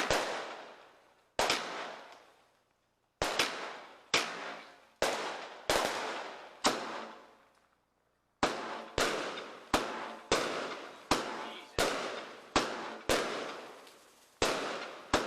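Fireworks going off in quick succession during a display: sharp bangs at an uneven pace, each followed by a fading tail, with a short lull about halfway through before the bangs resume.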